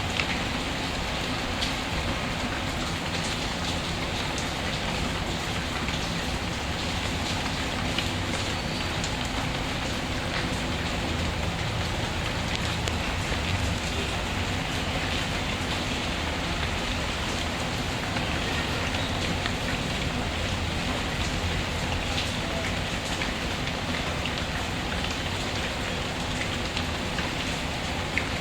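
Steady rain falling, with a few scattered sharp pops from a crackling wood fire.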